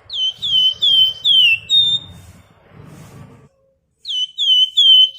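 A Flamboyan songbird singing a rapid run of about five loud, sharp, down-slurred whistled notes. After a pause of about two seconds, a second run starts near the end.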